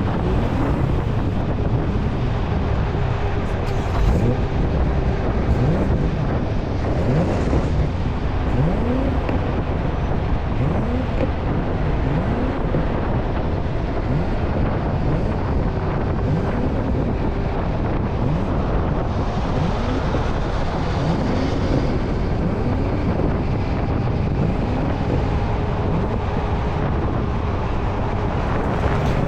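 Motorcycle engine running steadily while riding along, with wind noise on the microphone.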